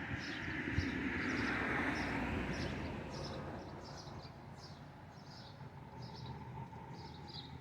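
Small birds chirping, a steady series of short, high chirps a few times a second, over a broad background hiss that fades after the first few seconds.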